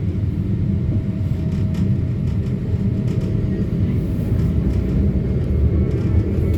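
Tram running, a steady low rumble with a faint steady whine above it.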